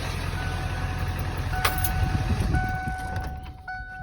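Ford 7.3 L Power Stroke turbo-diesel V8 idling steadily, with a thin steady whine above the low rumble. The rumble drops away near the end.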